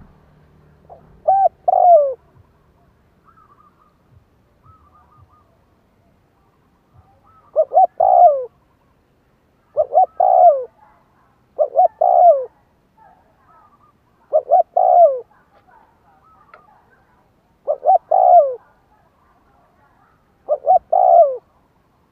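Spotted dove cooing: seven repeated phrases, each two or three short coos ending in a longer falling note, with pauses of a few seconds between them. It is a decoy dove's call, used to lure wild doves.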